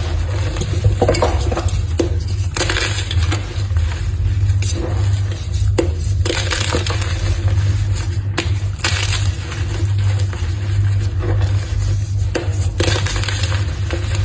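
Blocks of gym chalk being crushed and crumbled, an irregular run of crunches and crackles over a steady low hum.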